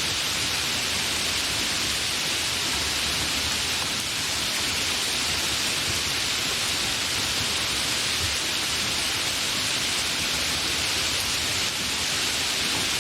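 Steady, fairly heavy rain falling, an even hiss of many drops with no thunder.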